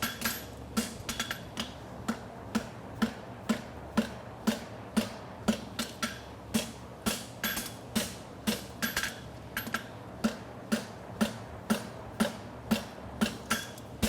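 Hand hammer striking a hot steel bar on an anvil in steady forging blows, about two a second with occasional lighter taps between, each blow ringing as the bar for a horseshoe is shaped.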